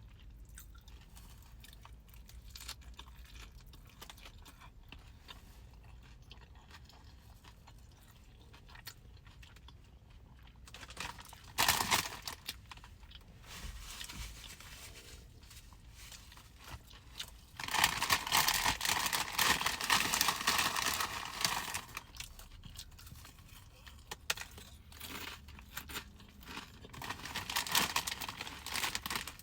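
Chips crunching and being chewed close to the microphone, in three spells: a short one about twelve seconds in, a longer one from about eighteen to twenty-one seconds, and another near the end.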